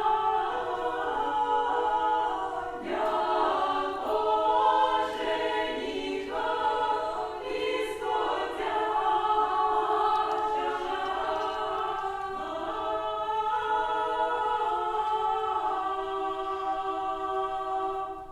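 Unaccompanied choir singing Old Russian music, several voices in harmony. The piece closes on a long held chord that stops at the very end.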